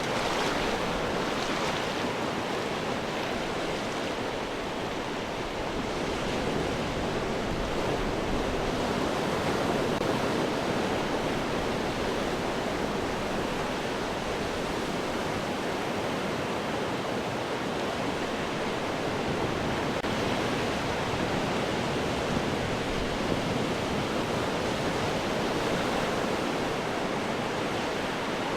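Ocean waves breaking and washing over rocks: a continuous rushing surf that swells and eases gently.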